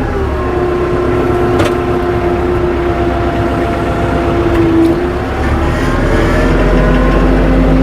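Tractor engine running as the tractor drives on chained tires; engine speed drops just after the start, holds steady, then climbs again about six seconds in. Two short clicks come through over the engine.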